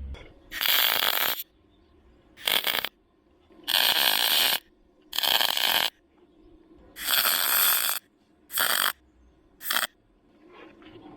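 Car-body welder laying short stitch welds on a sheet-metal rust patch: seven separate crackling bursts, each under a second, with pauses between them.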